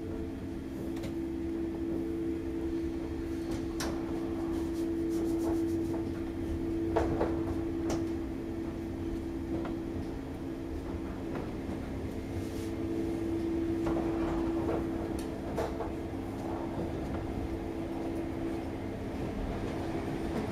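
Inside the passenger car of a running electric train: a steady electric hum over the low rumble of the wheels on the rails, with scattered clicks and knocks from the track and the car.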